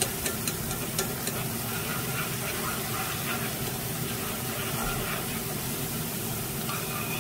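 Chopped scallions sizzling in hot oil and soy sauce in a nonstick frying pan while being stirred, with a few light clicks of the utensil against the pan in the first second and a half.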